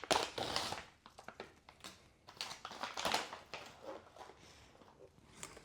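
Ration meal pouch being handled and opened, crinkling and rustling in short irregular bursts with a few light clicks.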